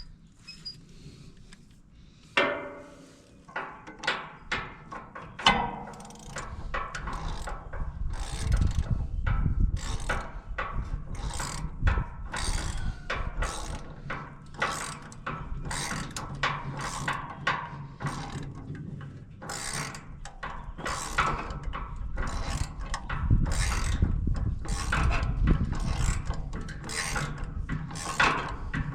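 Ratchet wrench clicking in repeated strokes, a few at first and then a steady run of about one to two a second, as the wood chipper's blade bolts are run in.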